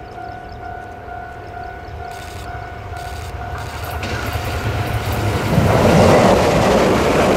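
Level-crossing warning signal sounding a steady two-note tone as a Tze-Chiang express train approaches. The train's rumble builds and it passes loudly from about five and a half seconds in, its wheels clattering on the rails and covering the signal.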